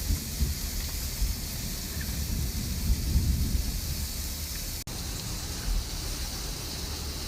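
Heavy rain falling steadily in a thunderstorm, a constant hiss with a low, uneven rumble of thunder underneath.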